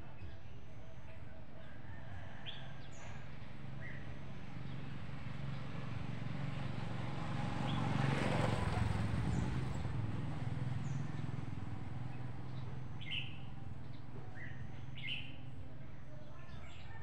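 Birds chirping now and then over a steady low hum. A swell of noise rises and fades about halfway through.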